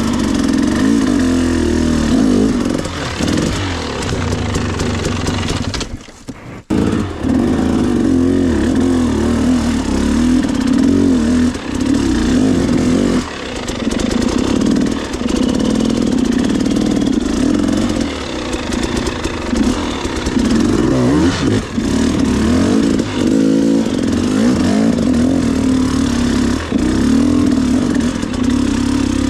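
Dirt bike engine running on a trail ride, its pitch rising and falling as the throttle is opened and closed. The sound cuts out briefly about six seconds in.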